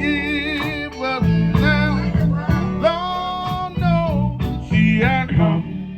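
Gospel song: a solo singer holding long, wavering notes with vibrato and sliding runs, over guitar and bass accompaniment.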